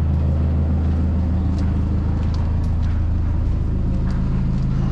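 Car engine idling steadily with a low, even hum, with a few faint light ticks over it.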